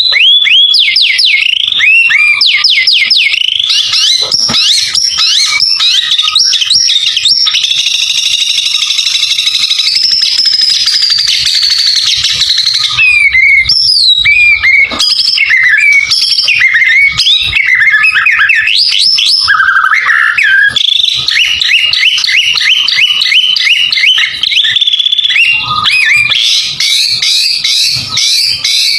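White-rumped shama (murai batu) singing loudly and continuously: quick runs of sharp whistled notes, a long warbling phrase in the middle, then varied phrases and fast repeated notes near the end, a full song packed with imitated calls.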